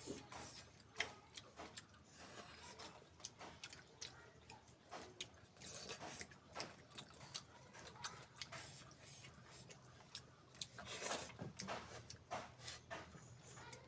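Eating pork feet: faint, irregular clicks and smacks of chewing and handling the food, with a louder cluster about eleven seconds in.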